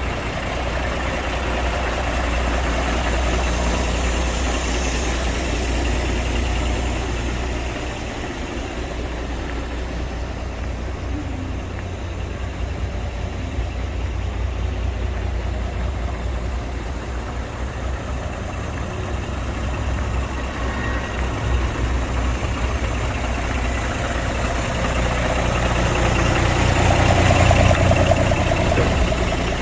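MAN 26.361 6x4 truck's straight-six diesel engine idling steadily. It gets louder for a couple of seconds near the end.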